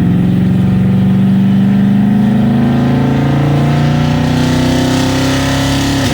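Road vehicle engine accelerating through a gear, its pitch climbing steadily with rising road and wind hiss. Near the end the pitch drops suddenly at a gear change.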